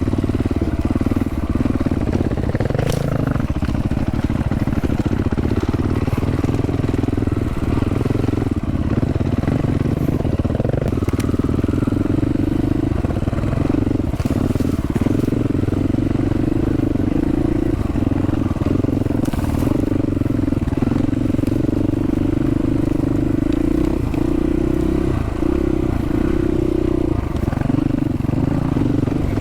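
Dual-sport motorcycle engine running steadily while riding a dirt trail, its pitch holding fairly level with small rises and dips.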